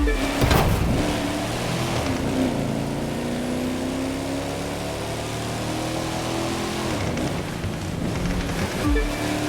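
A muscle car's engine running, with sharp revving blips about half a second in and again near the end, and a steady engine note with slowly sliding pitch between them.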